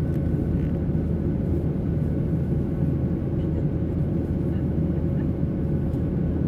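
Boeing 737-800 cabin noise in flight: its CFM56 jet engines and the airflow make a steady low rumble, with faint steady whining tones above it.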